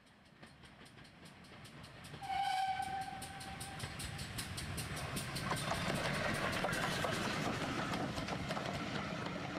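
A train passing: it fades in and grows louder, a short whistle blows about two seconds in, and then the wheels clatter over rail joints in a fast, even clickety-clack.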